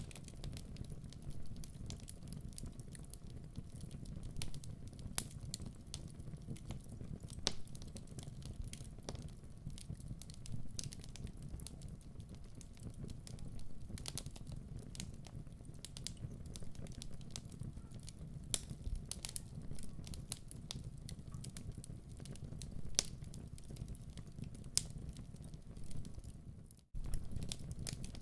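Wood fire crackling in a fireplace: a steady low rumble with scattered pops and snaps, broken by a brief dropout about a second before the end.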